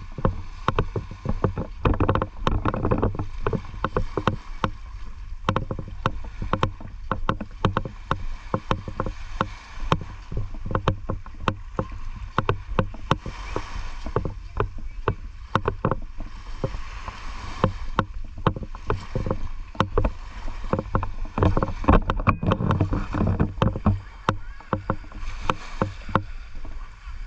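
Seawater sloshing and splashing close to the microphone, with many irregular sharp splashes over a steady low rumble.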